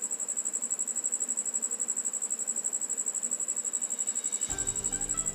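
Cricket chirping in a rapid, even, high-pitched trill. Background music comes in about four and a half seconds in.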